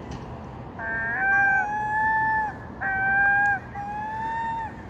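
Gull giving three long, drawn-out, cat-like calls in a row, each held at a steady pitch.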